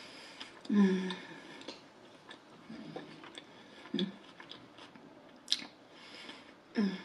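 Close-miked chewing of a mouthful of burger and hot dog with the mouth closed: soft wet clicks and squelches throughout. Short low hums break in about a second in, again at about four seconds and near the end.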